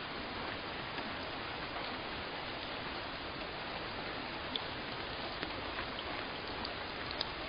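Steady rain, an even hiss with a few scattered drips standing out now and then.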